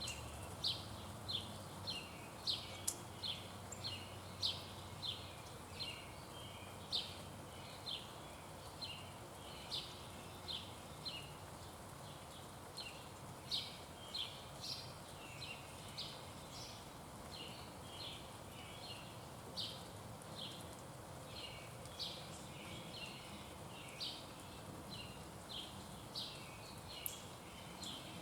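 Short, high chirps repeated about one to two a second, some overlapping, over faint steady outdoor background noise: birds calling at a feeder.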